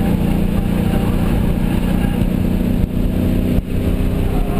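A 1993 Ford Mustang's engine running steadily at track speed, heard from inside the cabin, with two brief dips in the sound about three seconds in.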